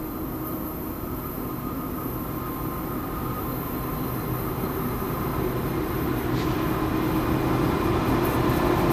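Diesel freight train approaching, its locomotive engine rumble growing steadily louder.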